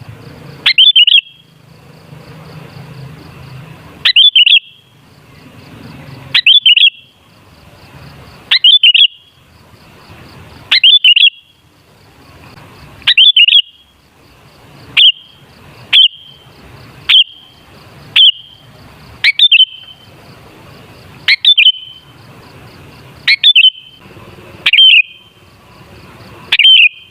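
Sooty-headed bulbul (kutilang) singing the same short, bright whistled phrase over and over, about one phrase every two seconds at first and about one a second in the second half.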